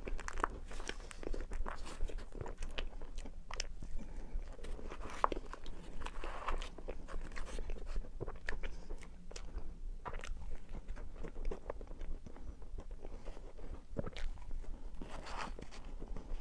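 Close-miked eating of a matcha Oreo crepe cake: biting and chewing mouth sounds with many small crunches and clicks.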